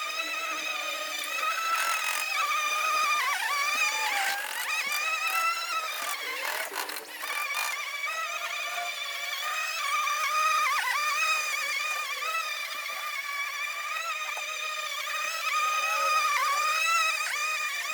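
Cordless 18 V lawn mower's motor and blade whining steadily as it cuts grass, the pitch sagging briefly several times as the blade meets heavier grass, with a few short ticks of debris about six to seven seconds in.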